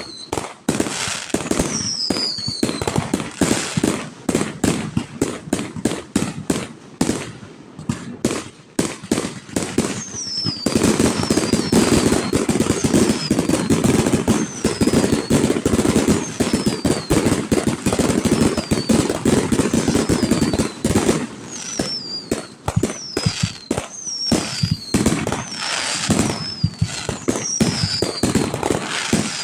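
Fireworks going off in a rapid barrage of bangs and crackling, densest and loudest through the middle, with repeated short high whistles that fall in pitch.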